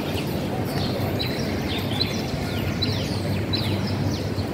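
Small birds chirping: short high notes that slide down in pitch, repeated every half second or so, over a steady low rumble of background noise.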